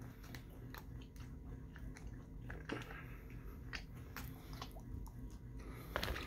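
Close-up chewing and biting of a piece of breakfast sandwich, with irregular wet mouth clicks and smacks over a low steady hum; the loudest click comes near the end.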